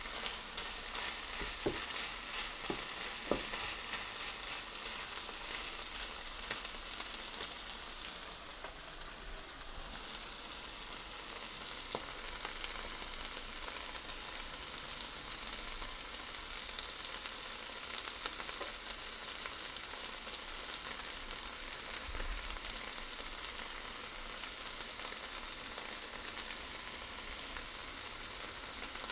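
Food frying in a hot pan with a steady sizzle, with a few light knocks in the first few seconds.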